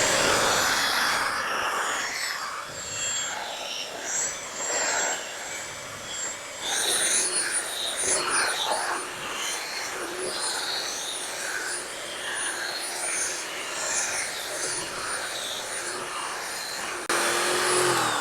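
Electric rotary buffer running on a boat's gel-coat hull, its sound rising and falling as the pad is pressed and moved across the surface, with a faint high whine throughout.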